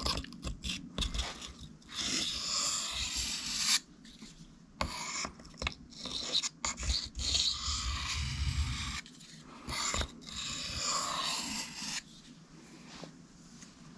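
Knife blade drawn in light passes across a whetstone to take off the burr: a run of scraping strokes, some short and some lasting a second or two, with brief pauses between them.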